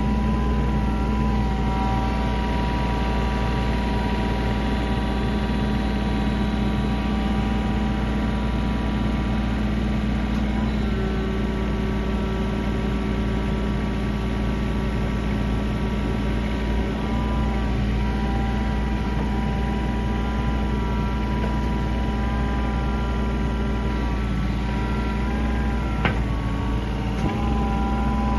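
Cat 301.7D mini excavator's diesel engine running steadily, with higher whining tones over it that shift in pitch several times as the machine is worked. There is a sharp click near the end.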